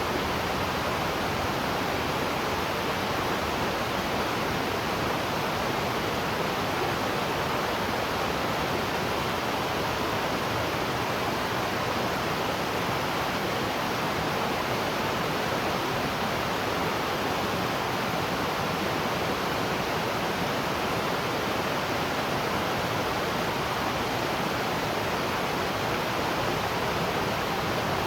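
Waterfall: water falling and rushing in a steady, unbroken hiss, even in loudness throughout.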